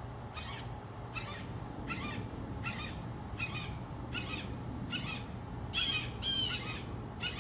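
A bird giving harsh, squawking calls over and over at an even pace, about one call every three-quarters of a second, with two louder calls near the end.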